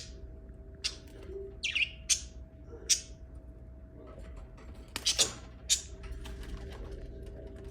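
Lovebirds giving short, sharp, shrill chirps, about eight of them in irregular bursts with a pause of about two seconds in the middle, over a faint steady hum.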